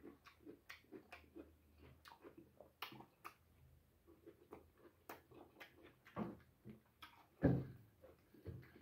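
A person eating with their hands and chewing food, heard as many soft, irregular clicks and smacks, with two louder short low sounds late on.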